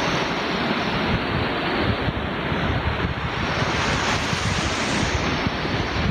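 Sea waves breaking and washing up the shore, with wind buffeting the microphone in gusts. The hiss of the surf swells about four seconds in.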